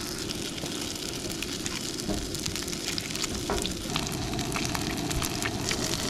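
Plant-based breakfast sausages sizzling in a frying pan: a steady hiss scattered with many small crackles and pops.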